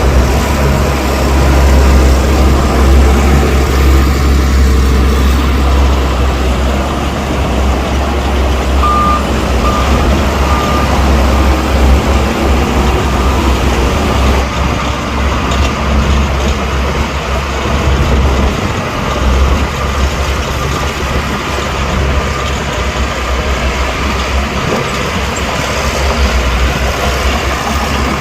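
Heavy diesel earthmoving machinery (bulldozer and dump trucks) running with a deep, steady engine rumble. About nine seconds in, a backup alarm beeps three times.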